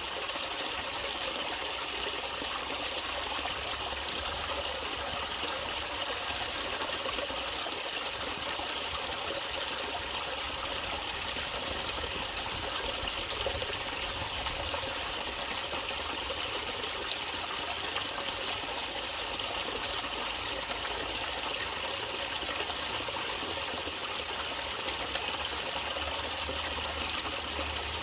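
Running water in a natural stream, trickling steadily.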